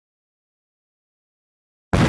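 Dead digital silence, then a sudden, very loud hit with a heavy low end that begins just before the end.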